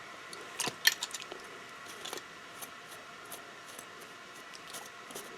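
Small metal bicycle drivetrain parts (chain, derailleurs, chain rings) clinking and rattling lightly as they are handled: a scatter of quiet, sharp clinks, the loudest a little under a second in.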